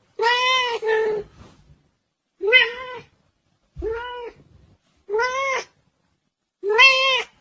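A domestic cat meowing repeatedly: a run of short meows, about one every second or so, each rising and then falling in pitch.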